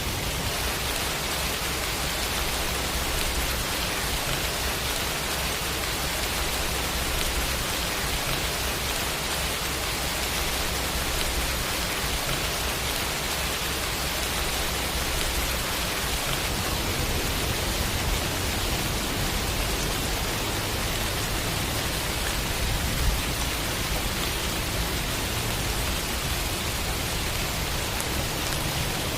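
Steady rain sound effect, an even hiss of falling rain, with one brief tap about two-thirds of the way through.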